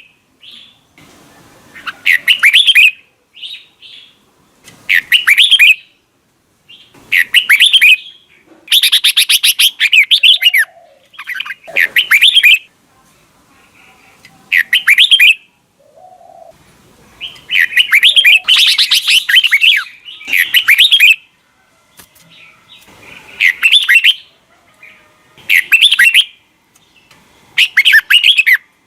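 Red-whiskered bulbul singing loud, quick warbled phrases, each about a second long, repeated every two to three seconds with short pauses between.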